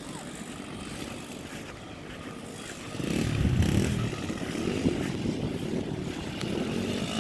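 Small dirt bike engine running in first gear, getting louder about three seconds in as the bike comes closer.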